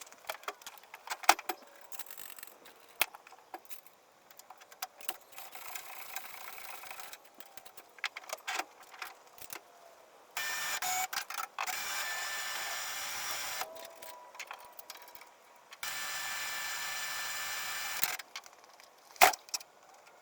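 Metallic clicks and rattles, then the small electric motor of an automated motorcycle-charging ramp running steadily twice for about three seconds each, with a hard knock near the end.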